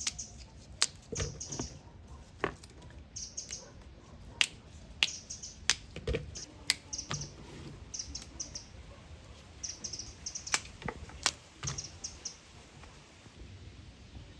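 Scattered sharp clicks and knocks, with short high chirps of small birds coming in quick clusters of two or three every second or so.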